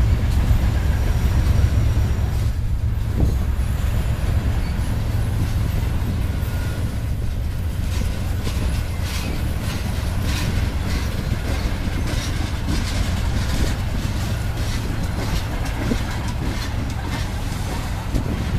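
Freight cars of a Union Pacific train rolling past close by: a steady low rumble of wheels on the rails, with repeated clicks and clanks that come more often in the second half.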